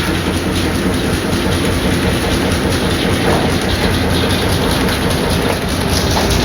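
Old sawmill machinery driven by a hot-bulb engine, running with a steady, rapid mechanical clatter.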